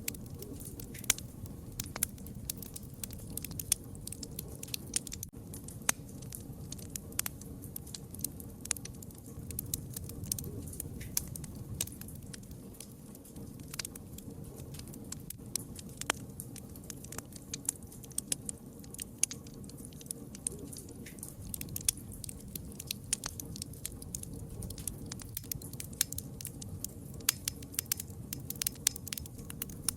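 Wood fire crackling and popping: many irregular sharp snaps over a steady low rumble of burning.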